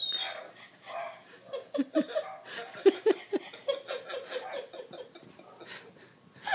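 A dog whining and giving short yips and barks, a string of brief pitched calls, mixed with laughter.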